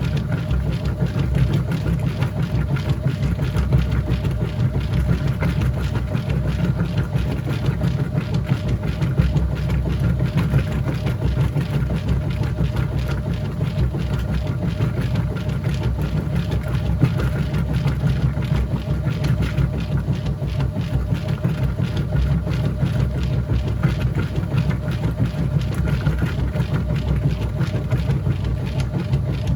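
Whirlpool top-load washing machine running mid-cycle: a steady motor hum with a strong low rumble that does not let up.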